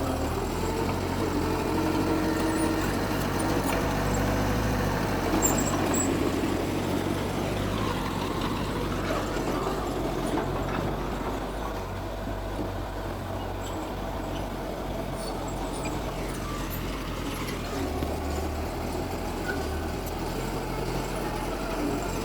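Diesel engines of heavy earthmoving machinery running with a steady low drone. It is louder in the first few seconds, eases off around the middle and builds again near the end.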